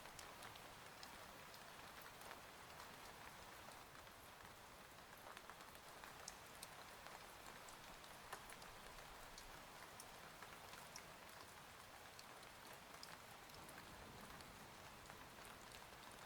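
Faint, steady rain, with scattered drops ticking.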